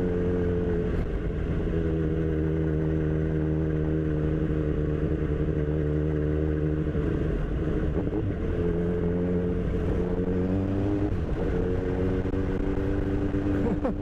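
Kawasaki Z1000's inline-four engine running at steady revs while riding, its note breaking up briefly twice, about seven and eleven seconds in, before settling again.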